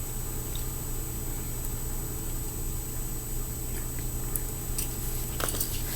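Steady low hum of room tone, with a few faint light ticks near the end.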